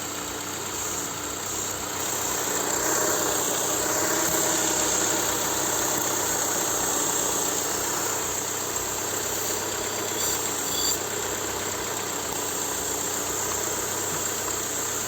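VW petrol engine running with a steady high hiss over it; the engine has a secondary air injection fault.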